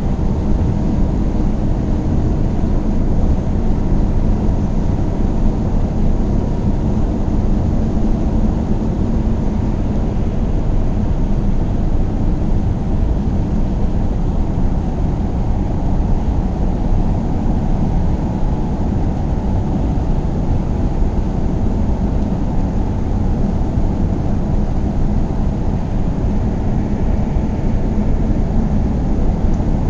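A car driving at a steady speed: a constant low rumble of engine and tyre road noise, unchanging throughout.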